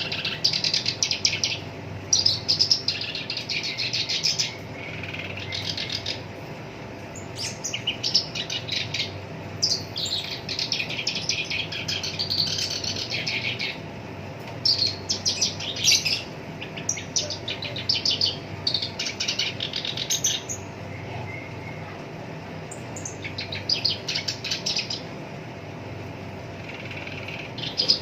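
Black-browed reed warbler singing: phrases of fast, rapid-fire repeated notes, each a second or two long and broken by short pauses, over a faint steady hum.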